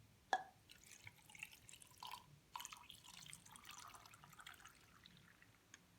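Faint wet dripping and crackling of coloured water running out of a popped plastic water pouch, after one sharp click about a third of a second in.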